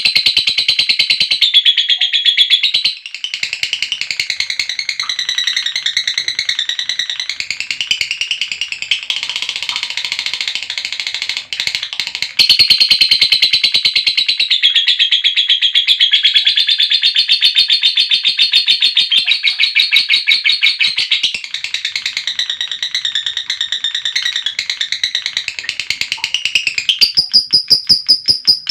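Female lovebird's long chattering trill (ngekek): a loud, rapid run of high notes kept up for many seconds with only brief breaks. Near the end it changes to a steadier string of evenly spaced, higher-pitched chirps.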